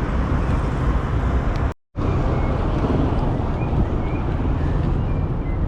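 Wind rushing over the camera microphone while riding a bicycle, with the sound cutting out completely for a moment a little under two seconds in. Faint high chirps come and go over the wind after the break.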